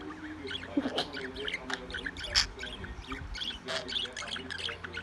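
Pet birds chattering: a rapid run of short chirps, clicks and squawks with no let-up.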